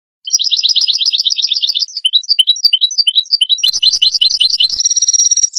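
European goldfinch singing: a fast twittering run of notes, a few slower chirps, then a buzzy note that ends in a falling slide.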